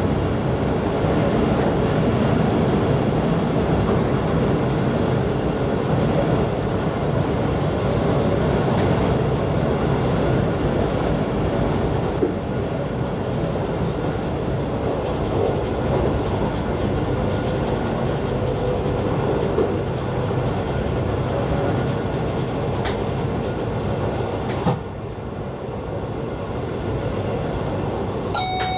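Local electric multiple-unit train running on the track, heard from the driver's cab: a steady rumble of wheels on rails with a few faint clicks, and a short knock about 25 seconds in after which the running noise is a little quieter. An electronic beep starts right at the end.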